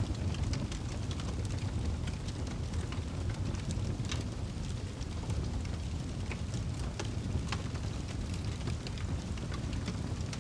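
Fire burning in a fireplace: a steady low rumble with sharp crackles and pops scattered irregularly.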